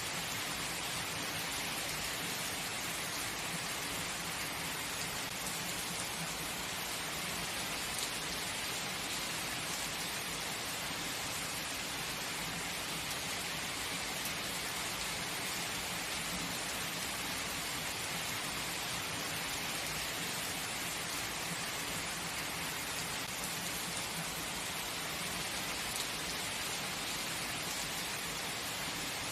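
Heavy rain falling steadily, an even hiss with no let-up and no thunder.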